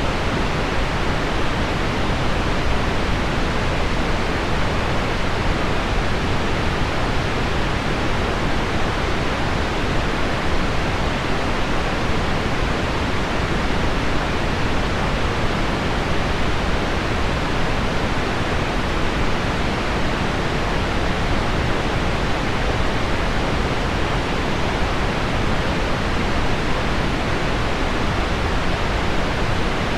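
Steady, unchanging pink noise blended with the even hiss of heavy rain on window glass, with no separate drops or events standing out.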